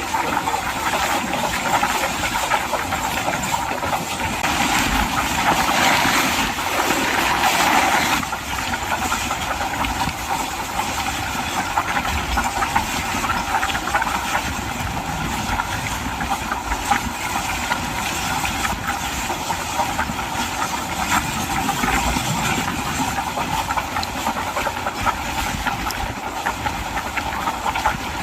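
Train running along the track: a steady rushing and rattling noise of wheels on rail, louder from about four and a half to eight seconds in and then dropping suddenly.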